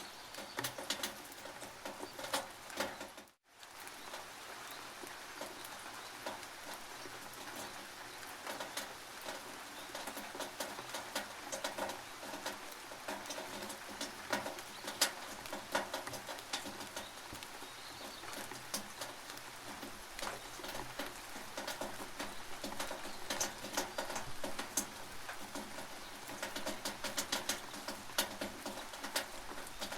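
Rain dripping and pattering on a tin roof: a dense, irregular run of sharp metallic taps over a steady hiss. The sound drops out for a split second about three and a half seconds in.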